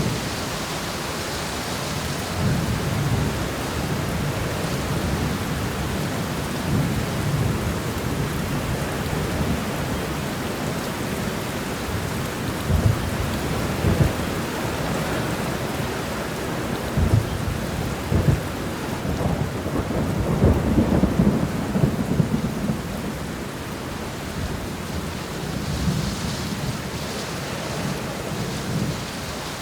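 Steady rain shower, an even hiss of falling rain, with low rumbling under it that swells into several louder low thumps a little before and after the middle.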